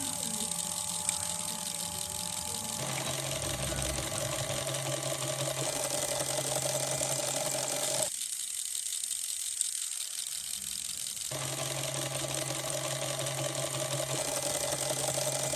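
Small electric motor of a DIY model brick-making machine running with a steady whirring hum. It cuts out for about three seconds around the middle, then runs again.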